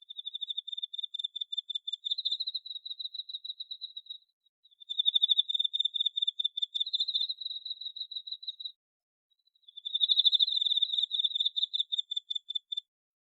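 A cricket trilling: a high, rapidly pulsing chirp in three long bouts, each about four seconds, with brief pauses between them.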